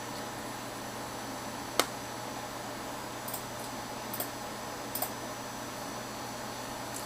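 Steady background hiss with one sharp click about two seconds in and three fainter clicks after it.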